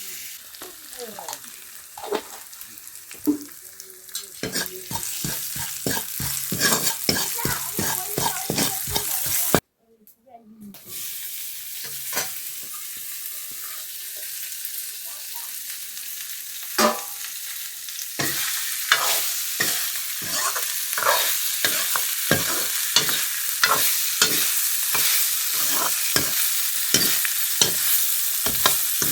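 Food sizzling as it fries in a hot pan, with a spoon scraping and stirring against the pan in quick repeated strokes. The sound drops out for about a second roughly a third of the way in, then the frying and stirring go on.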